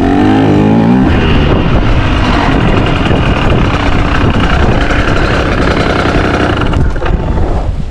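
Dirt bike engine running hard on the trail. Its pitch falls in the first second, then it settles into a rough, steady drone.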